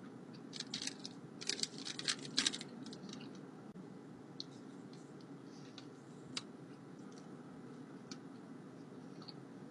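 Close-up eating sounds of a taco being bitten and chewed: a quick run of crisp crackles and clicks in the first few seconds, then a few scattered clicks.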